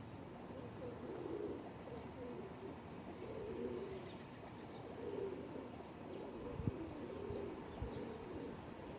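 Flock of pigeons cooing, low overlapping coos repeating every second or so, with a couple of soft knocks in the second half.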